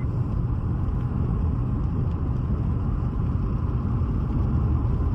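Steady low rumble of road vehicle noise, unbroken and even, with a click near the end.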